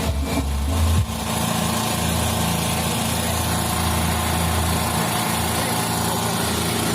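Bass-heavy music cuts off about a second in, leaving a small engine running steadily at an even speed.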